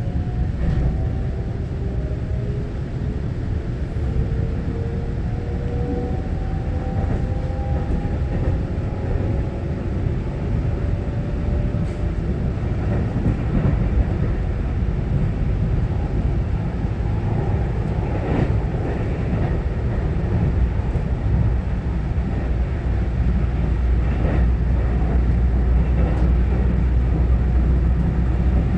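Cabin of a Taiwan Railway EMU900-series electric commuter train running: steady low rumble of wheels and running gear, with a faint whine rising slowly in pitch over the first ten seconds or so as the train gathers speed. A few sharp knocks come from the wheels over rail joints, and the rumble grows a little louder near the end.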